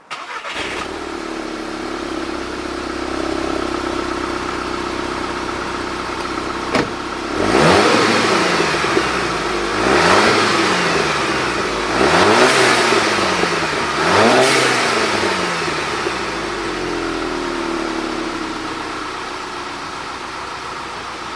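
VW Mk6 GTI's 2.0-litre turbocharged four-cylinder idling through its stock exhaust with the muffler still on. It is revved four times, about two seconds apart, each rev rising and falling back to idle, with a short click just before the first. It then settles back to a steady idle.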